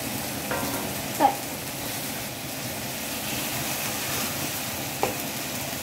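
Sliced sausage and chilli paste sizzling steadily in an aluminium wok, with a wooden spatula scraping and knocking against the wok a couple of times.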